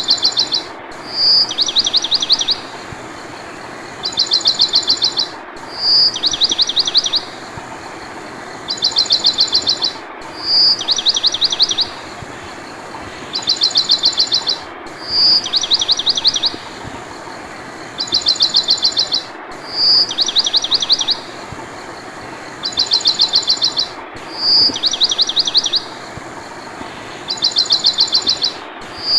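Background track of bird chirping: the same high phrase, a rapid trill, a short whistled note and a second trill, repeats identically about every five seconds over a steady hiss, like a looped sound effect.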